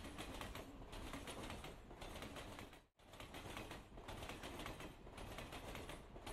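Faint, dense crackling and clicking noise that drops out briefly about three seconds in.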